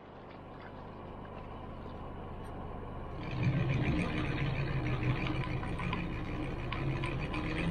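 A motor vehicle's engine running, growing slowly louder over the first three seconds and then louder and steady from about three seconds in, as if pulling away.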